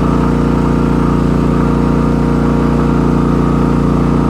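Portable generator engine running steadily under heavy load, close to 90%, with the RV's air conditioner and microwave both drawing on it.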